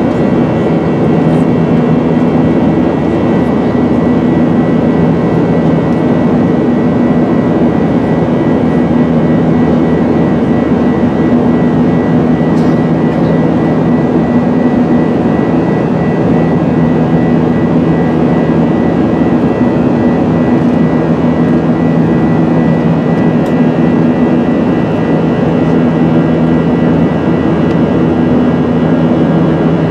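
Jet airliner cabin noise from a Boeing 737-900ER: the steady rush of its CFM56 turbofan engines and airflow, with a constant low hum and a faint higher whine, holding level throughout.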